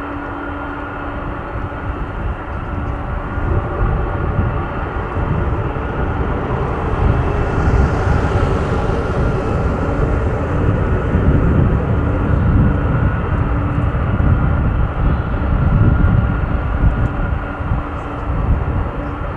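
Jet engines of a Boeing 747-400 freighter running, a steady low rumble with a hiss that swells and fades around the middle.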